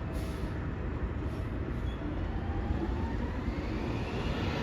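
Garbage truck's engine rumbling steadily, with a faint whine that rises in pitch over the second half.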